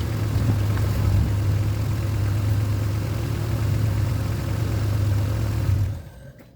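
Honda Civic Genio engine idling steadily through its exhaust, which is being checked for a leak at the loose, stripped exhaust bolts. The engine cuts off abruptly about six seconds in.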